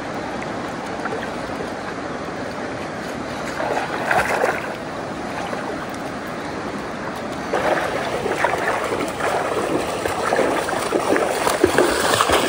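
Creek water running steadily, with bouts of splashing about four seconds in and again through the second half.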